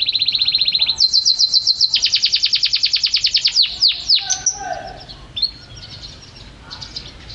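Domestic canary singing rapid rolling trills of fast repeated notes. About a second in it switches to a higher, louder trill, which ends near the four-second mark in a few quick downward-sweeping notes, followed by quieter scattered chirps.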